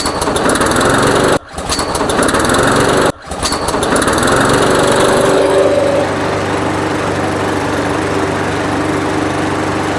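Walk-behind lawn mower's 140cc PowerMore single-cylinder engine, just pull-started and running. The sound drops out sharply and briefly twice in the first few seconds, then settles to a steady run after about five and a half seconds.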